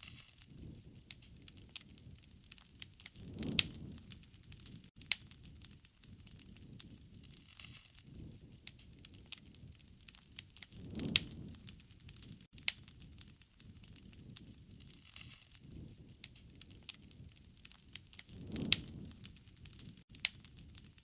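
Wood fire crackling and popping with many sharp snaps. A low rushing swell comes three times, about every seven and a half seconds.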